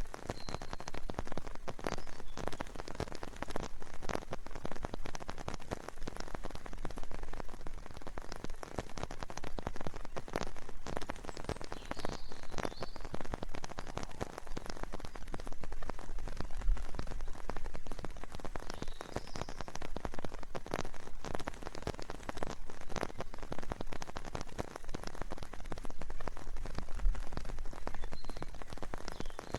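Steady rain, thick with separate drop strikes. A bird chirps faintly and briefly about four times, high above the rain.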